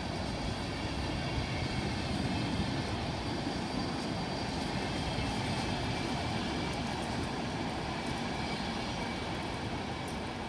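Passenger coaches of a departing long-distance train rolling past slowly: a steady rumble of wheels on rails with faint high tones above it, easing slightly near the end.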